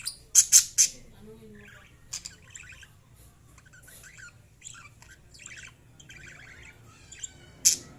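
Lovebirds chirping and squawking: three loud, sharp squawks in quick succession at the start, a run of chattering chirps through the middle, and another loud squawk near the end.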